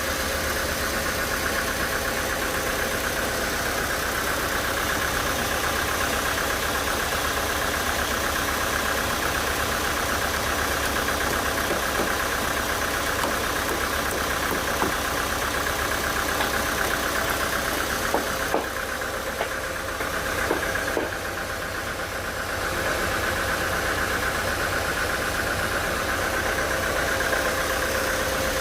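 Sawmill machinery running steadily with a constant hum and a high steady tone. The sound thins out for a few seconds about two-thirds of the way through, with a few small knocks, then returns to its steady level.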